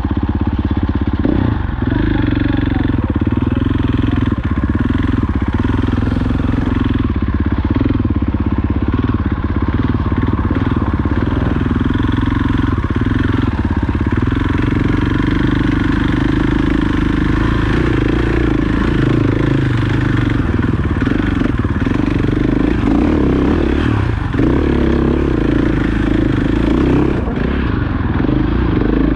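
Off-road motorcycle engine running steadily while being ridden on a dirt trail.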